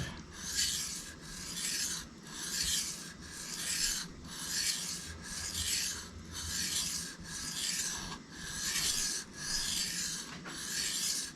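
Steel knife blade scraping back and forth across a Shapton Kuromaku whetstone in even, steady hand-sharpening strokes, a little more than one a second.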